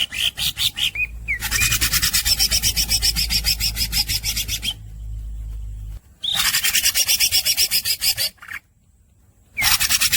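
Green leafbird (cucak ijo) in full song: a fast, rasping trill of about a dozen notes a second, delivered in long runs of two to three seconds with short breaks between them, opening with a few rising chirps.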